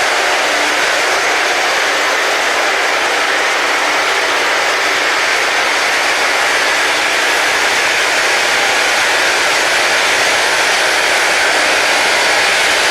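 Rail grinding wheels grinding the railhead: a loud, steady, harsh hiss with a faint hum underneath.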